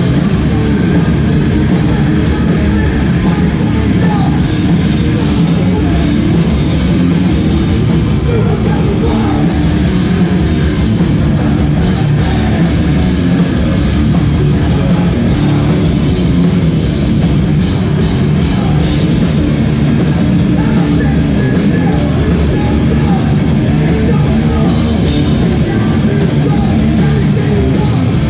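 A hardcore band playing live, loud and without a break: distorted electric guitars, bass and drum kit, with shouted vocals.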